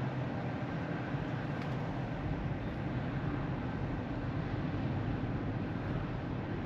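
Steady road and tyre noise heard inside the cabin of a moving Tesla Model 3, an electric car, so there is no engine sound, only an even low rumble and hiss.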